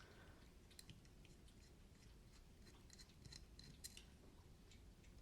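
Faint, sparse small clicks and taps from handling the parts of a folding knife being taken apart, with a little cluster of them about three to four seconds in.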